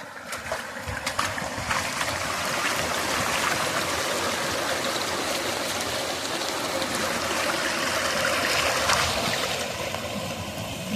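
Running water in a stream, a steady rushing.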